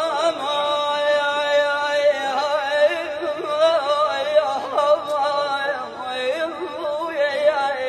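A voice singing a long wordless melismatic passage, holding notes that waver and slide in pitch, in the style of an Arabic chanted poem.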